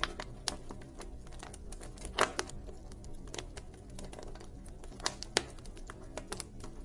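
Wood fire crackling: irregular sharp pops and snaps over a low steady rumble, with a louder pop about two seconds in and two more around five seconds in.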